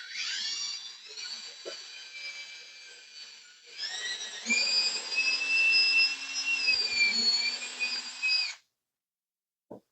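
Power drill boring holes in plywood, its motor whining high. The whine winds down over the first few seconds. About four seconds in the drill spins up again and runs steadily, its pitch sagging briefly, then it stops abruptly near the end.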